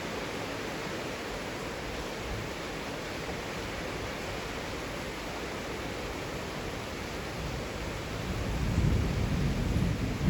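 Heavy rain falling steadily, with a low rumble of thunder swelling up about eight seconds in.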